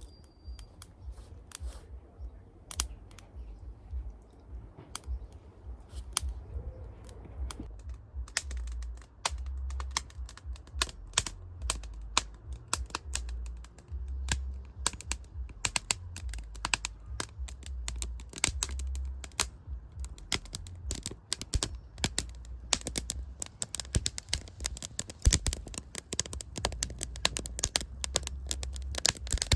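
Wood fire crackling, with irregular sharp pops and snaps that grow much denser about a quarter of the way in, over a low rumble.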